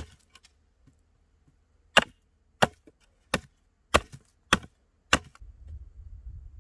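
A hand tool chopping wood: six sharp, evenly paced blows, a little over half a second apart, beginning about two seconds in.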